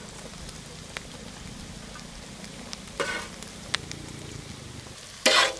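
Sliced onions, green chillies and chopped capsicum sizzling steadily in oil on a wide flat pan, with a few light clicks. Near the end a metal slotted spoon scrapes loudly across the pan.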